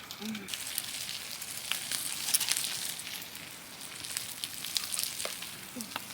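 Wood campfire crackling, with many sharp pops and snaps over a steady hiss.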